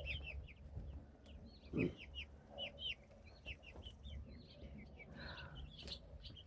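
Young chicks peeping over and over, many short high notes that slide downward, with a short lower sound about two seconds in.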